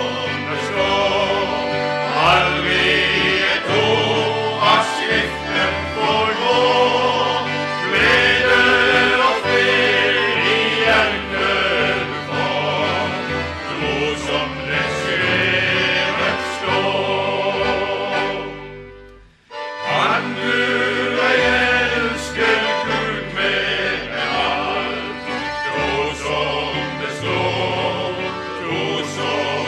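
Choir singing a gospel song with instrumental accompaniment and steady sustained bass notes. The music breaks off briefly about two-thirds of the way through, then starts again.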